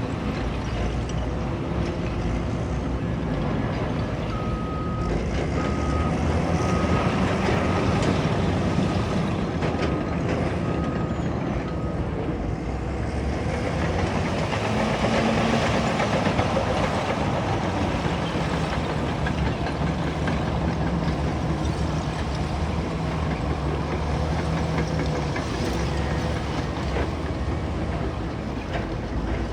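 Caterpillar bulldozer's diesel engine running steadily under load. A backup alarm beeps about once a second for several seconds, and the machine sounds louder for a few seconds in the middle.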